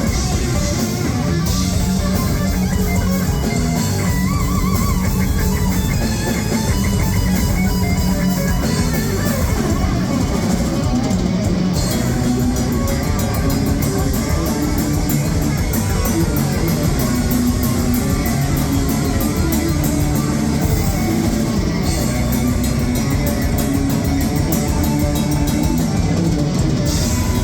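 Heavy metal band playing live: distorted electric guitars with bass and a drum kit, cymbals ticking rapidly through the second half.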